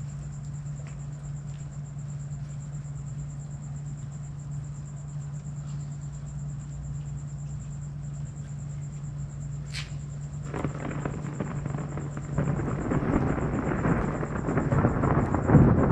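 Thunder from a monsoon thunderstorm: a sharp crack about ten seconds in, then crackling, rumbling thunder that builds steadily louder toward the end.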